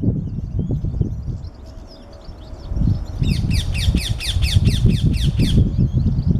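Rose-ringed parakeets screeching: a fast run of about a dozen harsh, falling calls starting about three seconds in and lasting a little over two seconds. Under it a low rumbling noise and faint twittering of small birds.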